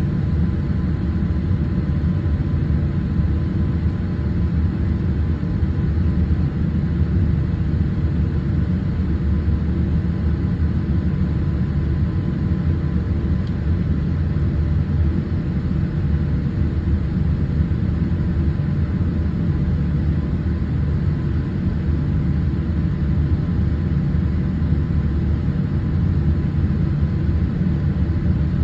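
Steady low rumble inside the passenger cabin of a Boeing 787 airliner on the ground before takeoff, with a faint steady hum over it and no change in level.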